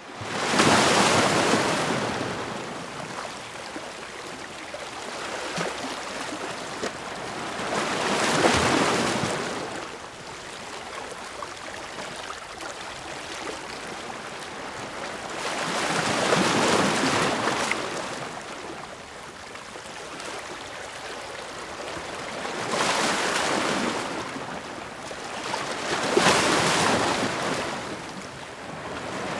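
Sea waves crashing against rocks: a rushing wash of surf that swells into a loud crash every several seconds, five in all, and falls back to a quieter hiss between.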